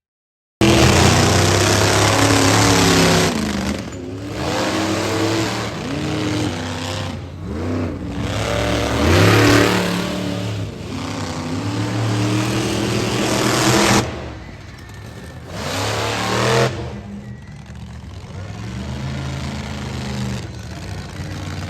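Monster truck engine revving hard, its pitch climbing and falling again and again. About fourteen seconds in it drops to a lower, steadier running sound, with one more short burst of revving.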